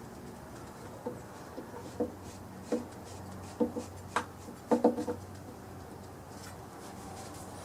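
A scattered series of light clicks and knocks, eight or so, bunched between about one and five seconds in, over a faint steady low hum.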